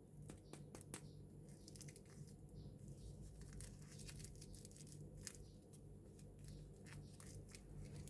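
Faint, scattered clicks and light crinkling from handling small plastic toy pieces and their packaging, over a steady low hum.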